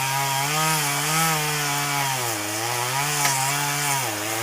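Two-stroke chainsaw running under load as it cuts through a large pecan trunk. Its engine speed wavers and sags twice as the chain bites into the wood.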